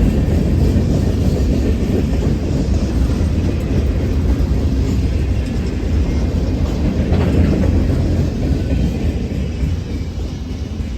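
Freight train rolling past, a steady heavy rumble of cars on the rails that eases off slightly near the end.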